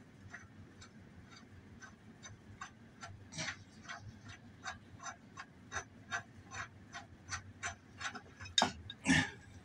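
Socket ratchet clicking steadily, about three clicks a second, as it backs off the mower's blade bolt, with two louder clacks near the end.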